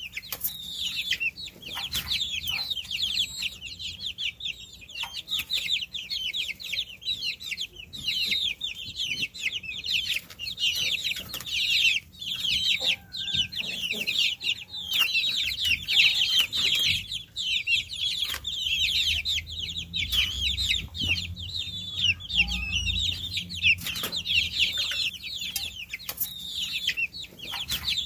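A brood of baby chicks peeping continuously: many short, high-pitched chirps overlapping without a break.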